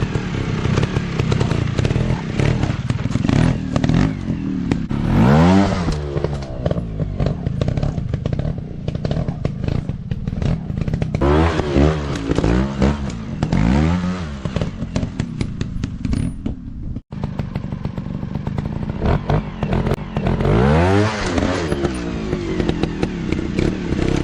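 Dirt bike engines revving repeatedly as they are ridden over rough trail, the engine pitch climbing and dropping with each throttle blip, with clattering of the bikes over rough ground.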